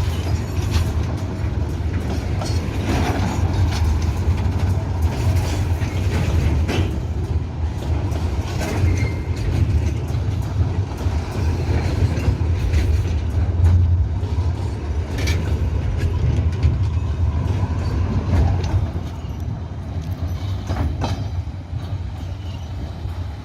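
Freight train of empty container wagons rolling past: a steady low rumble of wheels on rail with scattered clicks over the rail joints and a few brief wheel squeals, getting quieter over the last few seconds.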